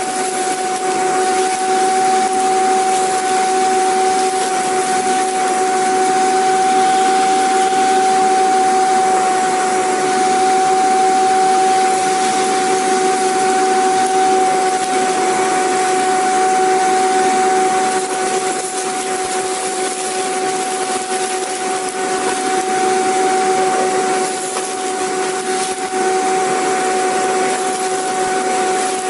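Vacuum cleaner motor running continuously: a steady rushing hiss with a constant whine on top, with brief slight dips in loudness.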